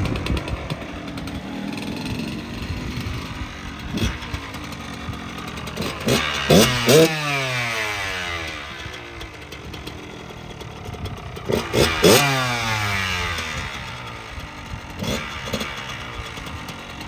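Kawasaki KX100 two-stroke dirt bike engine running, blipped up twice. Each time the pitch rises sharply, then falls away over a few seconds.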